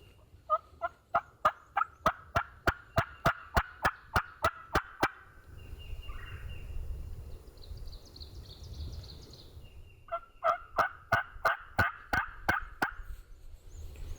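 Turkey call worked by a hunter to call a gobbler in: a long run of sharp yelps at about four a second, then after a pause of a few seconds a second, shorter run.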